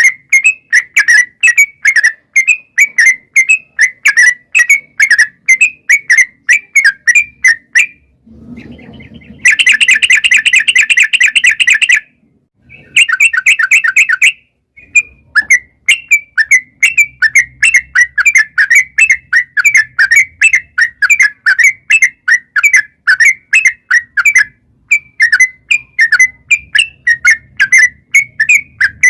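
Yellow-vented bulbul (trucukan) singing a long, lively run of short repeated chirpy notes. About a third of the way through it breaks into two dense, fast rattling trills before going back to the repeated notes.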